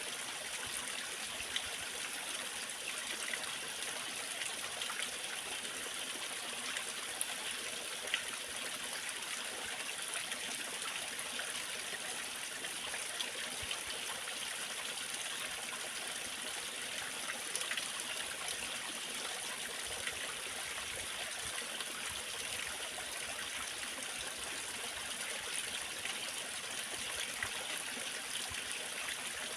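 Small waterfall: water pouring and splashing steadily, a constant hiss with a few small splashes standing out.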